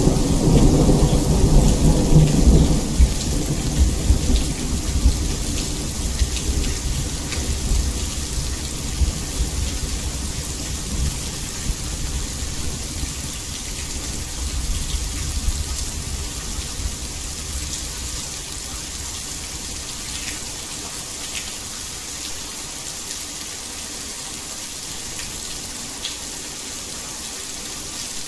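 Steady heavy rain hissing, with a long low rumble of thunder at the start that slowly dies away over the first half, leaving the rain alone.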